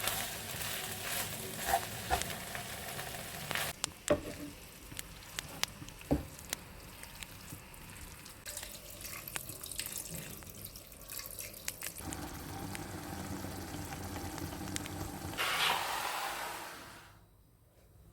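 Kitchen cooking sounds: food sizzling in a pan while a utensil stirs and clicks against it, then scattered knocks and clinks of kitchenware, and a short rush of noise near the end before it goes quiet.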